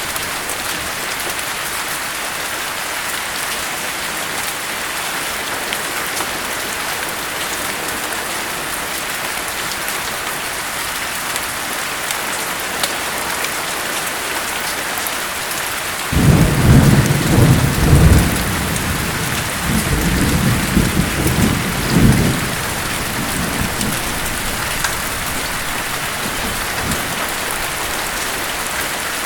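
Steady rain with a long roll of thunder about halfway through, loudest as it breaks and rumbling on for several seconds before dying away.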